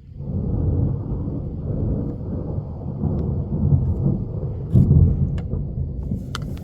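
Thunder rumbling: a long, low roll that starts suddenly and swells to its loudest about five seconds in, with a few sharp ticks near the end.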